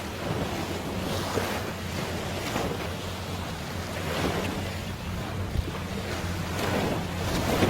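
Sea waves washing and wind buffeting the microphone, swelling and easing, over a steady low hum.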